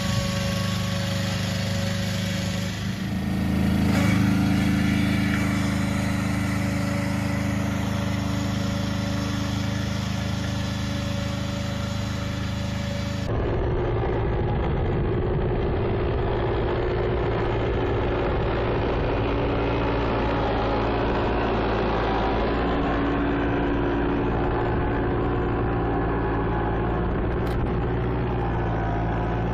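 Mini tractor engine running steadily while plowing, picking up revs about three seconds in; about halfway through the sound switches abruptly to another steadily running engine.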